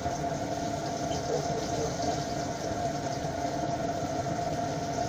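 Pieces of crucian carp frying in oil in a hot pan, over a steady mechanical hum with one constant mid-pitched tone.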